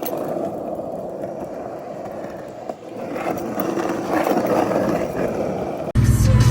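Skateboard wheels rolling steadily over pavement, a continuous grinding rumble that wavers a little. About six seconds in it cuts off suddenly and music with a heavy bass beat comes in.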